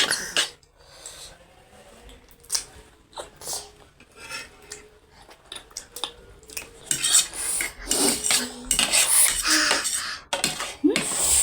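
Cutlery clinking and scraping against bowls as instant noodles are eaten, in irregular clicks that grow busier in the last few seconds.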